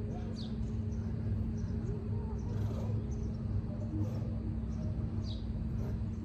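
Two short, high, descending bird chirps, about half a second and five seconds in, over a steady low rumble with a constant hum.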